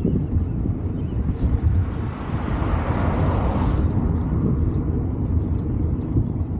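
Low wind rumble on the microphone while riding, with a vehicle passing: its hiss swells and fades about two to four seconds in.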